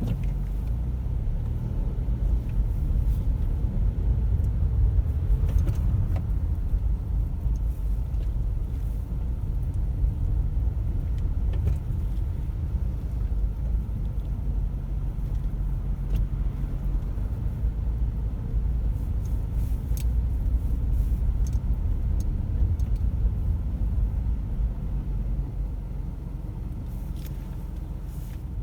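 A car being driven, with a steady low rumble of engine and road noise and a few faint ticks.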